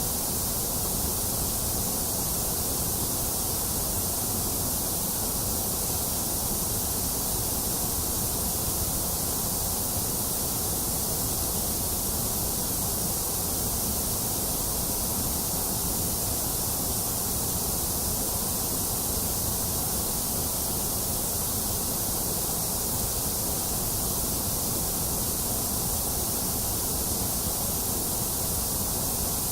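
Steady synthetic white noise: an even, unchanging hiss, bright at the top with a dip in the middle.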